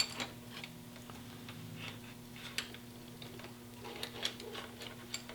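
Faint, irregular metal clicks and taps of a hand tool working at a motorcycle gearbox drain plug that is stuck in its tunnel, several of them coming close together near the end, over a steady low hum.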